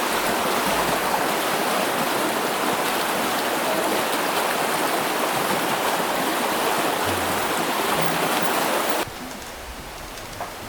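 Rushing water: a steady, loud rush that drops off sharply about nine seconds in to a quieter rush, with a faint knock near the end.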